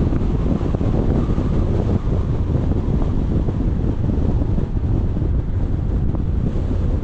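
Steady, loud wind noise buffeting an action camera's microphone, a dense low rumble with no breaks.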